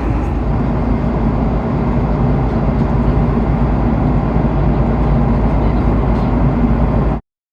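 Steady, loud rumbling roar of airliner cabin noise from an Airbus A330-200, cutting off suddenly about seven seconds in.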